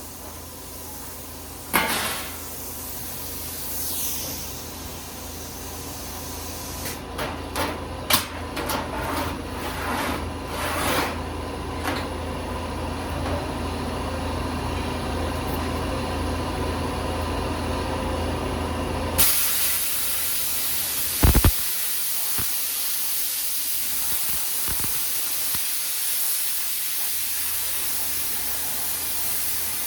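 Steady hiss of spraying air, with scattered clicks and knocks in the first part over a low hum. About two-thirds of the way in the hum drops away and the hiss turns brighter, with a couple of knocks shortly after.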